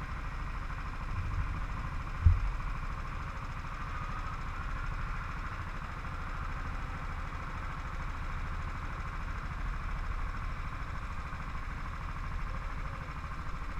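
Engine running steadily, with no revving, and a single thump about two seconds in.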